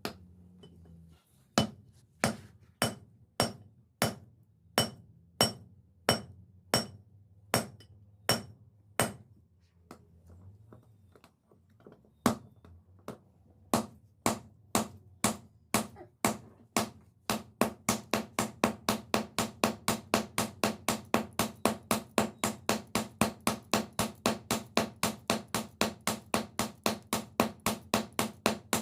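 Hammer blows on steel over an anvil, each strike ringing. The blows are slow and steady at first, pause briefly near the middle, then quicken to a fast, even rhythm for the last third.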